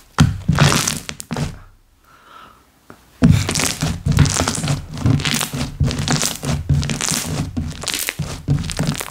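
Slime being squished, pressed and stretched by hand: a quick run of short, sharp squishes and pops, stopping for about a second and a half near the start, then going on without a break.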